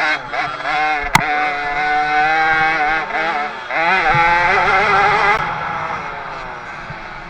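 Small two-stroke motocross bike engine revving high, its pitch dipping and climbing again as the throttle is worked, then dying away near the end. A single sharp click about a second in.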